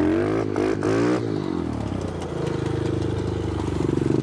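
Small four-stroke pit bike engine revved in several quick throttle blips over the first second, then running steadily on the throttle.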